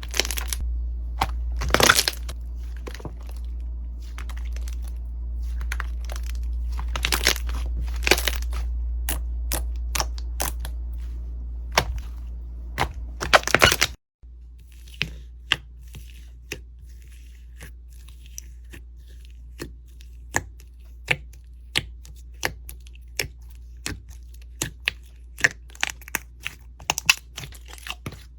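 Slime being pressed and squeezed by hand, making sharp crackling and popping clicks over a steady low hum. The sound changes abruptly about halfway through, after which the clicks are quieter and more evenly spaced.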